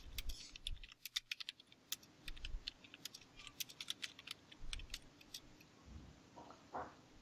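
Faint, irregular clicking of typing on a computer keyboard, a quick run of keystrokes that thins out near the end.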